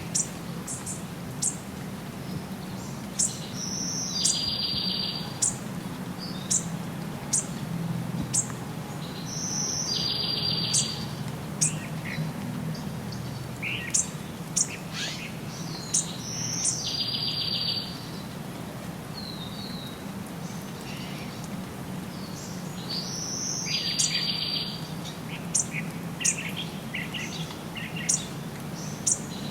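Songbirds singing: one bird repeats a short phrase ending in a fast high trill about every six to seven seconds, among scattered sharp chirps from others, over a steady low rumble.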